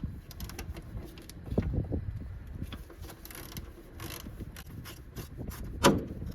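Hand tools working on a truck's engine: a ratchet wrench clicking in short runs with scattered metallic clicks and knocks, and one sharper knock near the end.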